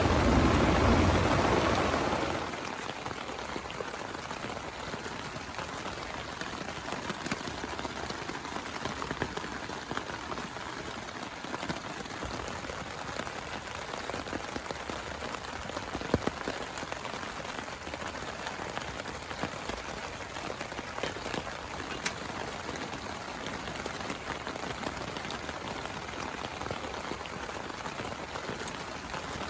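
Steady rain falling, with many small drop ticks. A roll of thunder dies away in the first couple of seconds.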